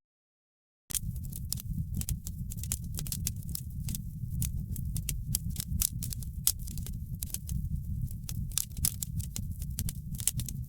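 Wood fire in a fireplace crackling, with many irregular sharp pops and snaps over a steady low rumble of the flames. The sound drops out to total silence for about the first second, then resumes.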